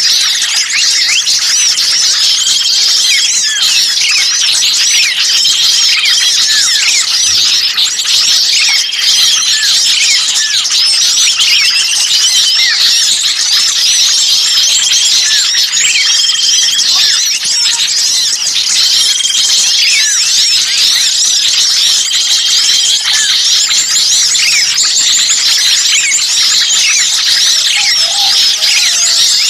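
Dense, unbroken chorus of many small songbirds chirping and trilling at once, the agitated alarm-type calling of small birds as if caught ("ribut kejepit") that is played as a lure to draw in other birds. Short flat whistled notes recur every second or two over the high chirping.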